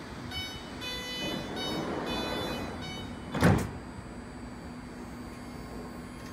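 A BART Fleet of the Future train standing at the platform with its doors shut: a run of short electronic beeps with a rise in mechanical noise, then, about three and a half seconds in, a short loud burst of noise, the loudest sound.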